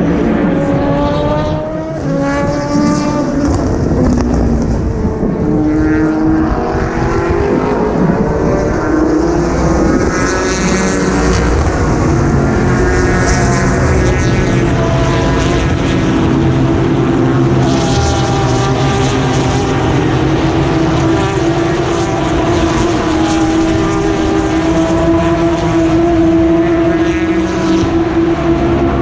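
A stream of endurance race cars passing at full throttle, several engines overlapping, each rising in pitch as it accelerates out of the corner and through its gears.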